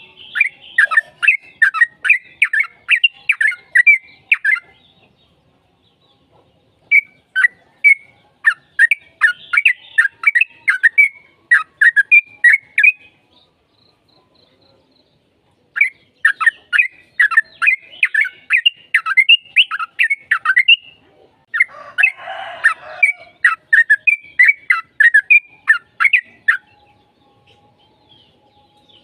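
Yellow-vented bulbul (trucukan) singing in long bursts of rapid, chattering notes, four phrases with short pauses between them. Near the middle of the third pause a harsh, rasping note comes in.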